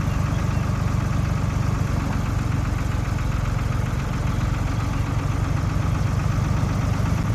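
1973 Ford 4500 industrial backhoe's diesel engine running steadily at a low, even speed with a knocking diesel clatter.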